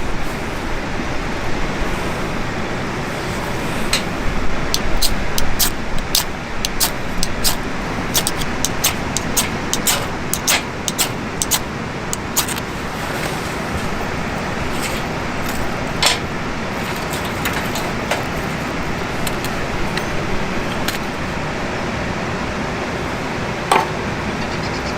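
Wood campfire burning with a steady rush and irregular sharp crackles and pops, thickest in the first half.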